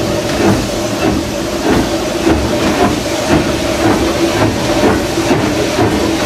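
Steam locomotive heard from inside its cab: a steady hiss of steam over the low rumble of the running engine.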